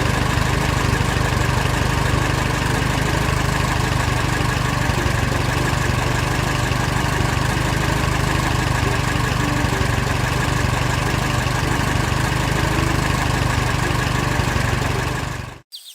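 An engine running steadily at a constant speed, with a deep rumble and a hiss over it; it cuts off abruptly near the end.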